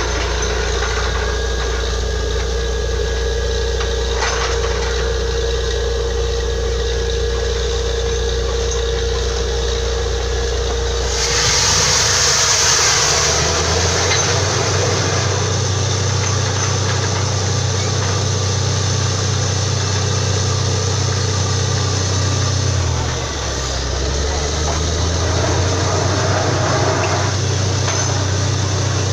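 Borewell drilling rig's engine running steadily under load. About eleven seconds in, a loud hiss lasts about two seconds, after which the engine note rises; it dips briefly about two-thirds of the way through and comes back up.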